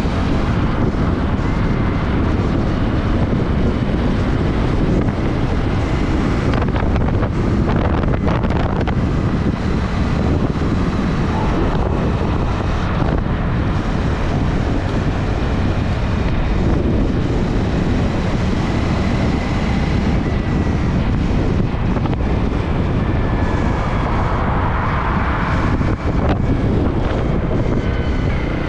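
Heavy wind buffeting the microphone, a steady loud rumble and hiss, over the running noise of a moving vehicle.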